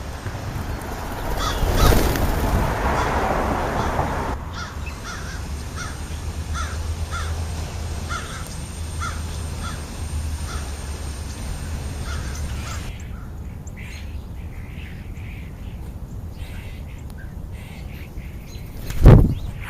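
American crows cawing in a long string of short calls, about two a second, then fainter calls. A rush of noise lasts a couple of seconds about two seconds in, and a single loud thump comes near the end.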